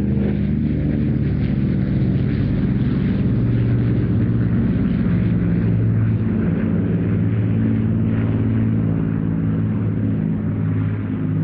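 Avro Lancaster and Douglas Dakota flying past in formation: the Lancaster's four Rolls-Royce Merlin V12 engines and the Dakota's two radial engines make a loud, steady, deep piston-engine drone.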